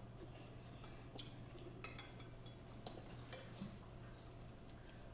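Faint clinks and taps of cutlery against dishes, a few scattered strikes with the sharpest about two seconds in, over a low steady hum.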